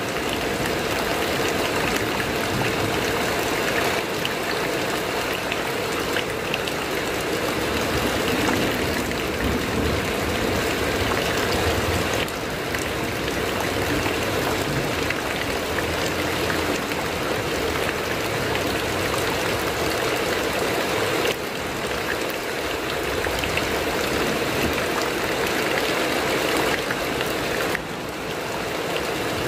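Heavy rain falling on a corrugated metal roof, a steady dense patter, with a few slight dips in level.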